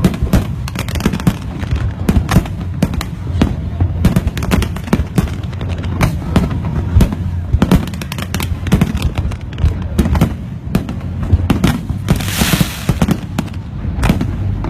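Aerial fireworks going off in quick, irregular succession: many sharp bangs and crackles over a steady low rumble, with a brief loud hiss about twelve seconds in.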